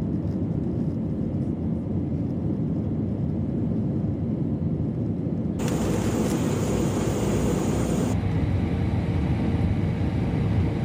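Airliner cabin noise in flight: a steady, deep rumble of engines and airflow heard from inside the cabin. The hiss above it changes abruptly twice, about halfway through and again near the end.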